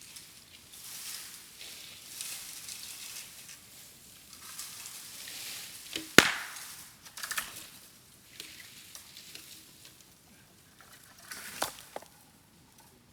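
Bamboo burning in a bonfire, crackling steadily, with one sharp loud pop about six seconds in and smaller pops a second later and near the end as heated bamboo culms burst.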